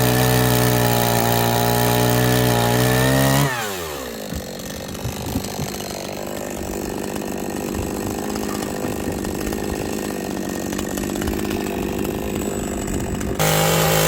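Two-stroke chainsaw running at high revs, then the throttle is released about three and a half seconds in and the engine winds down to a quieter, rough idle. Just before the end it is suddenly loud and at full revs again.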